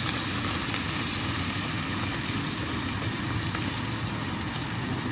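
Onions and mint leaves frying in hot oil in a pan: a steady sizzle over a steady low rumble.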